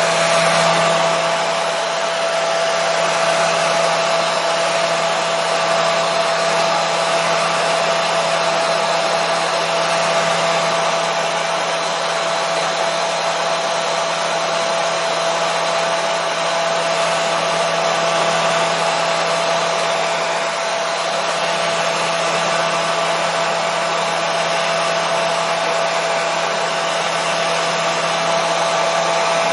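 Hair dryer running steadily: an even rush of blown air with a constant whine from its motor.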